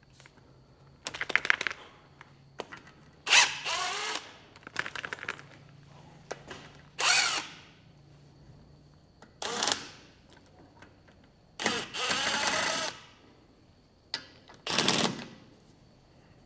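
A power driver spins nuts off the front wheel hub studs in about six short bursts, each revving up and winding down, with quiet gaps between them.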